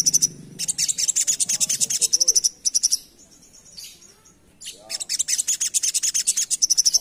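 Sogok ontong bird singing a rapid, high-pitched chattering song of fast repeated notes. It breaks off for about a second and a half in the middle, then resumes.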